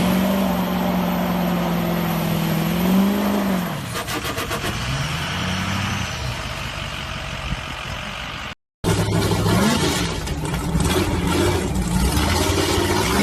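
Old truck engine revving, its pitch held high for a few seconds and then dropping back to a lower idle, with one more short rev. After an abrupt cut, a second truck engine revs up and down.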